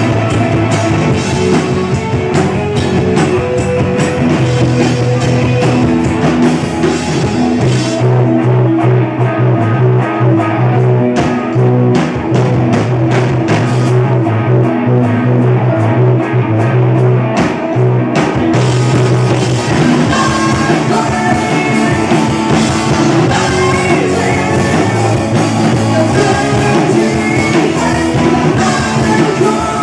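Rock music: a band with electric guitar, bass and drums, with singing. The cymbals thin out for about ten seconds in the middle.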